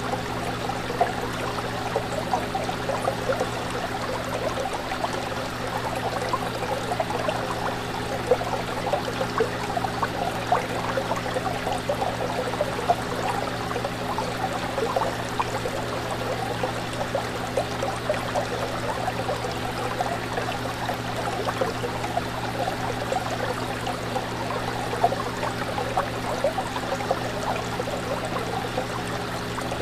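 Fish tank water trickling and splashing steadily, with frequent small splashes, over a steady low hum.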